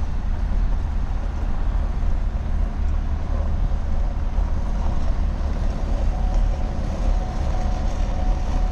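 Steady low rumble of a vehicle driving slowly, heard from inside the cab.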